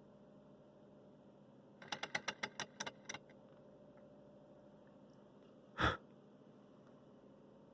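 A quick run of about ten sharp, light clicks lasting about a second, then a few seconds later a single short, louder burst of noise.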